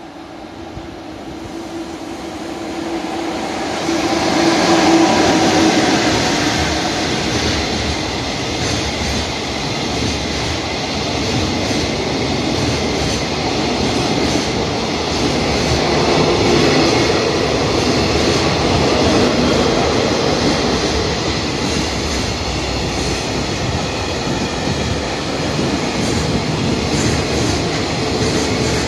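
Container freight train hauled by an EF66 electric locomotive running through a station without stopping. It grows louder over the first few seconds as the locomotive approaches and is loudest about four seconds in as it passes. After that comes the steady rolling noise of the long string of container wagons going by.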